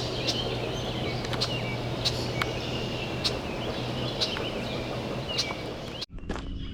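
Outdoor morning ambience: birds chirping over a steady rushing noise, with scattered sharp clicks. About six seconds in the sound cuts off abruptly to a quieter passage with a low steady hum.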